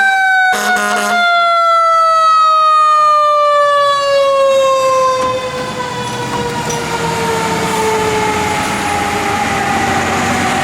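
Fire apparatus mechanical siren winding down, its pitch falling slowly and steadily, with a short air horn blast about half a second in. The truck's diesel engine is heard more plainly in the second half.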